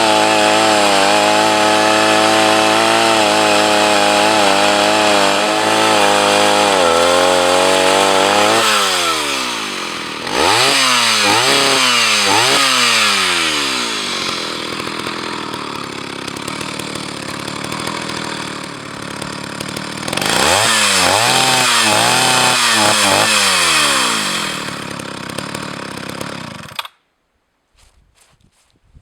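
Old Jonsereds 601 two-stroke chainsaw cutting at full throttle, then dropping and climbing in pitch through several quick throttle blips, cutting again and stopping abruptly near the end. It is losing power when it gets too much wood, a sign the owner puts down to age or to the high-speed fuel mixture needing adjustment.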